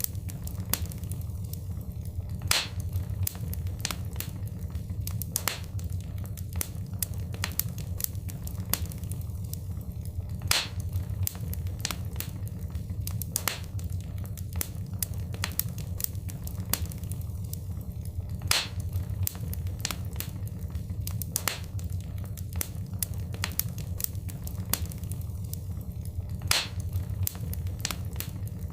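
Wood fire crackling in a fireplace: a steady low rumble under frequent sharp crackles and pops, with a louder pop about every eight seconds.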